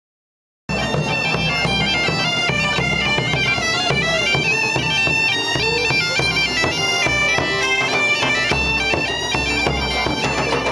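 Bagpipes playing a tune over a steady drone, starting abruptly just under a second in.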